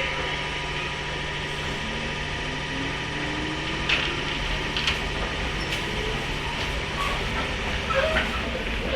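Running sound inside a JR 103-series electric motor car (MoHa 102) with MT55 traction motors: the motor whine rises steadily in pitch over about two seconds as the train gathers speed, over a steady low hum, with a few sharp clicks in the second half.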